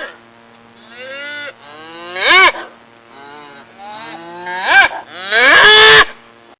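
Cattle mooing, several calls in a row, each rising in pitch; a faint one about a second in, a louder one around two seconds, and the longest, loudest moo near the end, which cuts off abruptly.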